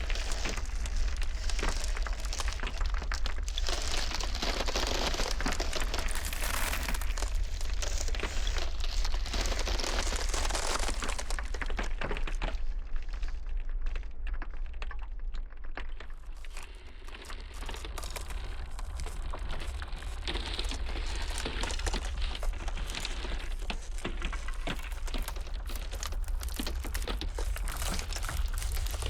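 Ice crackling and cracking in a dense, continuous run of small cracks, over a steady low rumble of blizzard wind. The crackling thins out and dips briefly a little past the middle, then builds again.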